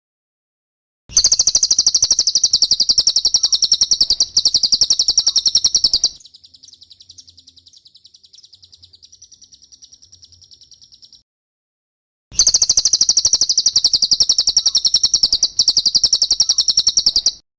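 Cililin bird song: loud, high, fast trills of rapidly repeated notes in two long phrases, with a much softer high trill and a short silent pause between them.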